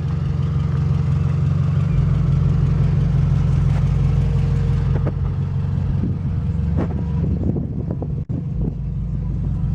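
2009 Scion tC's four-cylinder engine idling steadily through a Spec D catback exhaust whose muffler has lost its fiberglass packing, which makes it louder. A few brief knocks come about five to seven seconds in.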